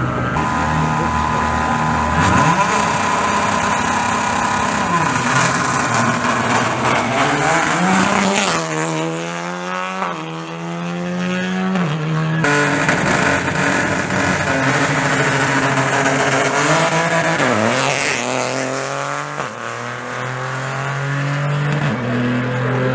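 Rally car engines at a special-stage start, held at high revs and then accelerating hard, rising in pitch, with two marked changes in engine note about 9 and 18 seconds in.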